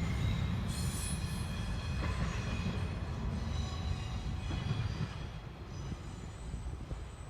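Freight train cars rolling past with a heavy low rumble and high, steady wheel squeal, growing quieter over the last couple of seconds.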